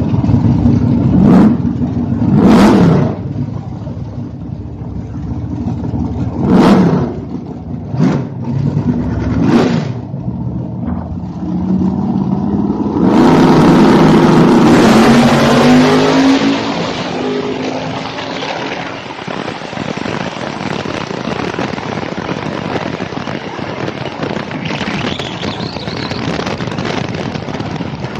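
Drag race car engine idling at the starting line with about five sharp throttle blips, then revving up and launching at full throttle about 13 seconds in, the loudest part lasting about three seconds. This gives way to a steadier rush of engine and wind noise as the car runs down the strip.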